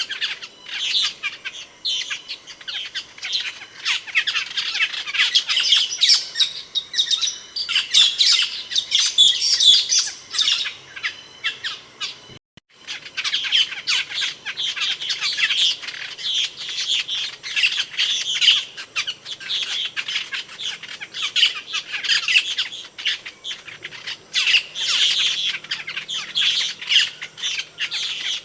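Asian glossy starling calling: a dense, continuous run of quick, high, sharp chirps and squawks, which drops out for an instant near the middle.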